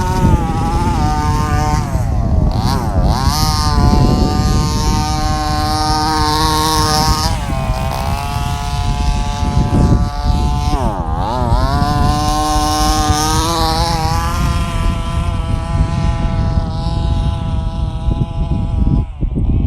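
Radio-controlled Traxxas Slash short-course truck's motor whining at speed, the pitch dipping and climbing again twice as it slows and accelerates, over rumbling wind and dirt noise.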